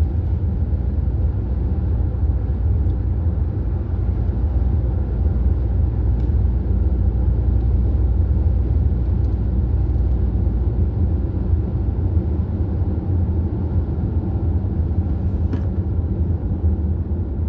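Steady engine and tyre drone heard inside a vehicle's cabin while it cruises along the highway, a constant low rumble with no changes.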